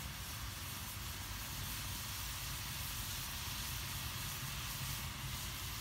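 Steady hiss with a low hum underneath from a pot of water boiling on the stove.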